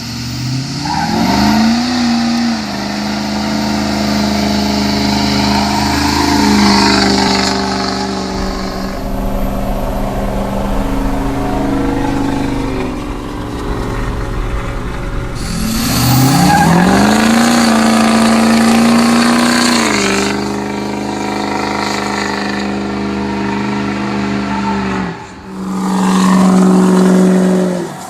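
Straight-piped 6.0 L Powerstroke turbo-diesel V8 of a 2006 Ford F-350. It revs up and holds at high revs three times, easing off between each.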